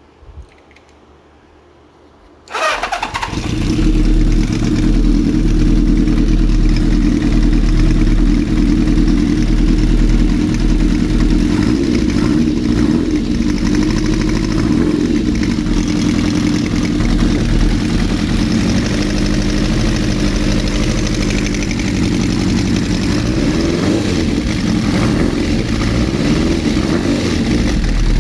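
Kawasaki Z400FX inline-four motorcycle engine started: a brief crank about two and a half seconds in, then it catches and settles into a steady idle that runs on loudly.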